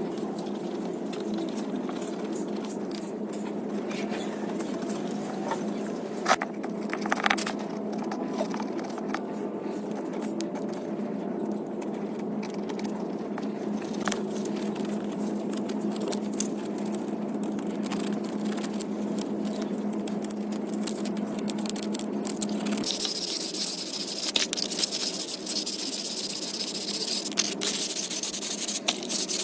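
A steady mechanical hum with scattered clicks and scrapes of work; about 23 seconds in, a loud spraying hiss starts and continues.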